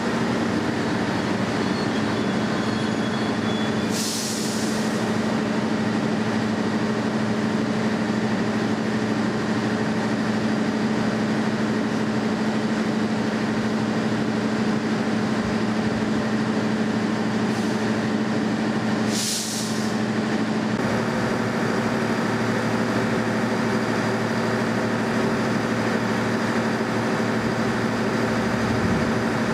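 Steady diesel drone of a passenger train standing at the platform, with two short hisses of air from its brakes, about four seconds in and again some fifteen seconds later.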